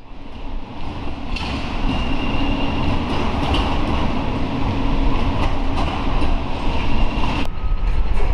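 Light-rail train running past on street track: a steady rumble with a thin high whine. The sound fades in at the start and cuts off suddenly about seven and a half seconds in.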